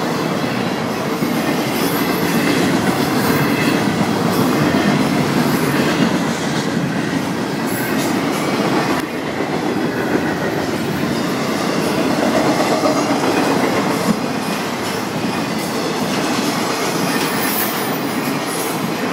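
Freight cars of a long Florida East Coast Railway train rolling past, with a steady rumble and clatter of steel wheels on the rails.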